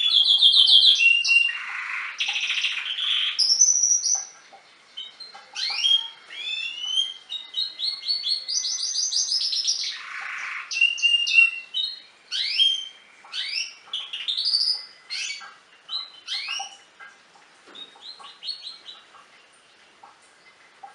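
Domestic canary singing a long song of rapid trills and buzzy rolls mixed with sweeping chirps, loudest in the first half and growing sparser and fainter toward the end.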